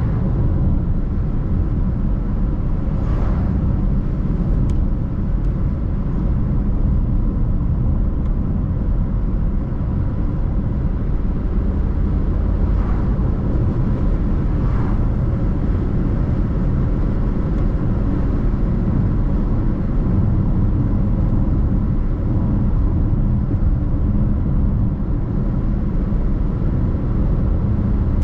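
Car driving along a road: a steady low rumble of tyres and engine, with a couple of faint brief swells that may be passing traffic.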